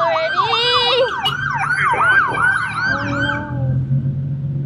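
Police car siren in a fast yelp, its pitch sweeping up and down about four times a second. It cuts off about three and a half seconds in.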